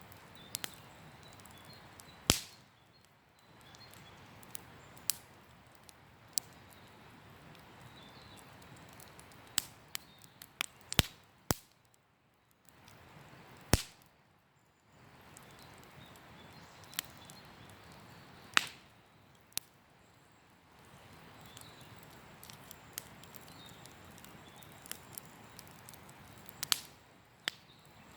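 Wood campfire crackling, with sharp single pops every few seconds over a soft steady rush that drops away now and then.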